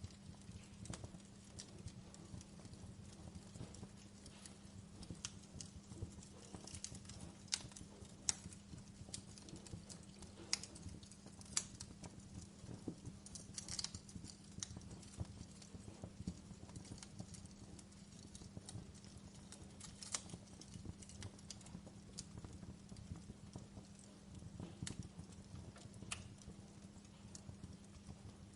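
Wood fire crackling in a fireplace: irregular pops and snaps, a few of them sharper, over a low steady hum.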